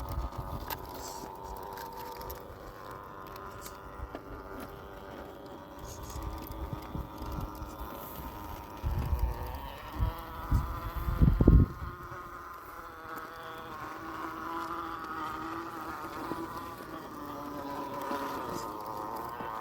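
Axial SCX10 II RC crawler's electric motor and geartrain whining, the pitch rising and falling with the throttle as it crawls. A few loud low thumps come about halfway through.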